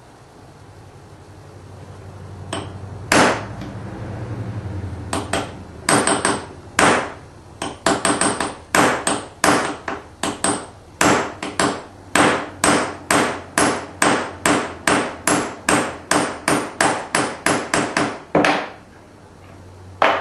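Hammer blows on a metal pipe used as a punch to form a seat in the end of another pipe: a few scattered strikes, then a steady run of about two blows a second, each with a short metallic ring.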